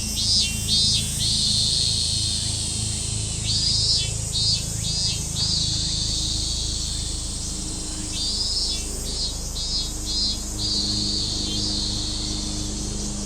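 Robust cicada (minmin-zemi) singing: about three bouts of rapid pulsed notes, each running into a long held high buzz. A steady low hum runs underneath.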